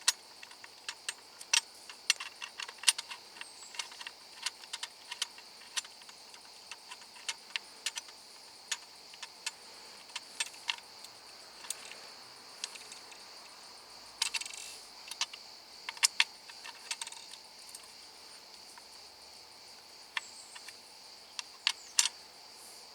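Irregular sharp clicks and taps of small hard parts and hand tools being handled during hands-on work on the car, with a brief scraping rustle about two-thirds of the way through. A faint steady high hiss lies under it throughout.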